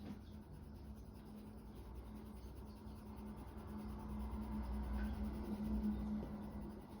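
Colour pencil rubbing on hot press watercolour paper in small circular strokes with light pressure, a faint continuous scratching that grows a little louder about two-thirds of the way through.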